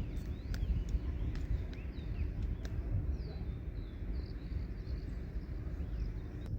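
Small birds chirping in short calls over a steady low rumble, with a few faint clicks.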